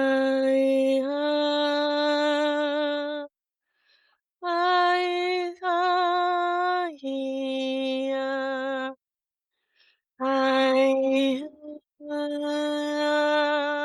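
A woman's voice vocalizing light language: long, sustained wordless tones with slight wavering in pitch, sung in several phrases separated by short pauses.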